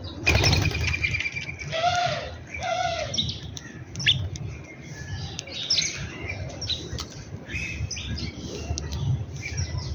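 Several birds chirping and calling at once, with two short rising-and-falling calls about two and three seconds in, over a low rumble.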